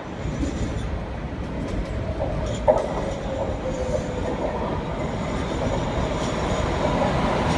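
Passenger rail car running, a steady low rumble, with a brief squeal of the wheels a little over two seconds in that slides slightly down in pitch.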